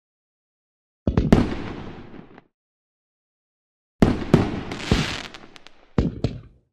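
Fireworks bursting in separate volleys with dead silence between them. A couple of sharp bangs about a second in fade away. A longer run of bangs with crackling follows about four seconds in, and two more bangs come near the end.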